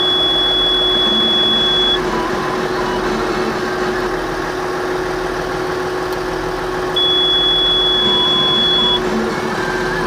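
Excavator diesel engine idling steadily just after start-up, with a high-pitched electronic beep sounding twice, each held about two seconds: once at the start and again about seven seconds in.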